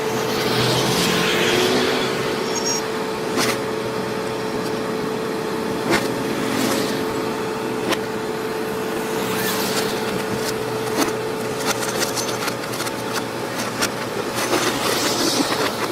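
Diesel engine of a JCB machine running steadily, with a constant whine and scattered clicks and knocks of the machine working.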